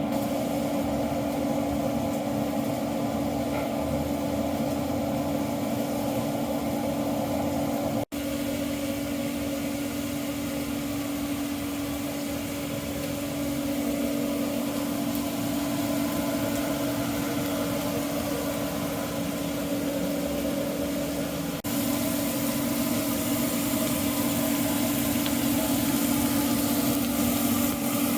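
A machine running with a steady, constant hum. A hissing noise over it gets louder about 22 seconds in.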